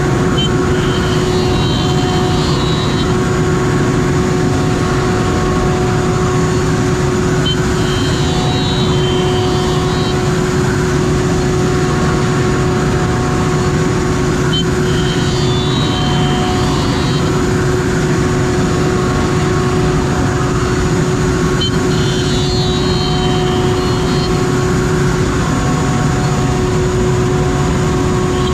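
CNC router milling beech boards: a steady machine noise with a constant hum. About every seven seconds a click is followed by a higher whine lasting two to three seconds, four times over.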